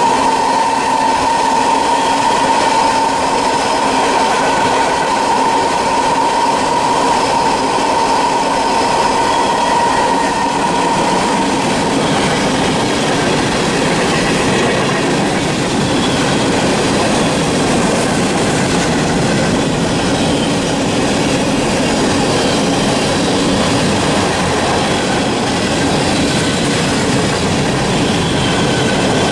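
A freight train's cars rolling past, with steady wheel-on-rail noise and clatter. A steady high-pitched ringing tone from the wheels fades out about twelve seconds in.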